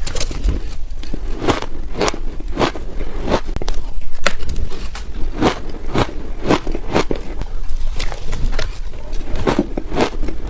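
Ice cubes dusted with matcha powder being bitten and chewed up close, a sharp crunch about once or twice a second.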